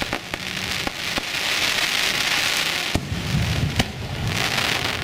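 Aerial fireworks: a dense, hissing crackle with sharp pops scattered through it, and a deeper boom a little after three seconds in.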